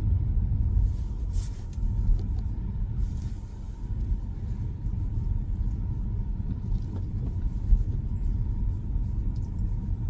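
Steady low road and tyre rumble heard inside the cabin of a Tesla Model Y, an electric car, driving on a snowy road. A faint steady whine sits under it, and brief hisses come about one and a half and three seconds in.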